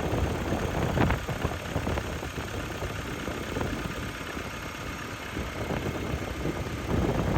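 2013 Mini Cooper Clubvan's engine idling after a cold start. It is a steady low rumble that grows a little louder about a second in and again near the end.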